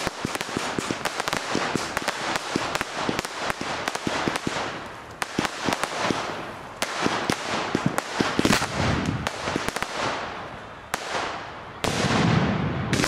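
Fireworks display: a dense run of crackling pops from bursting shells, with heavier, deeper booms about eight seconds in and again near the end.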